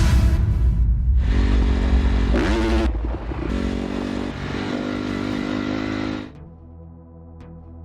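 Dirt bike engine revving, its pitch rising and falling, over background music. The engine sound cuts off abruptly about six seconds in, leaving quieter music.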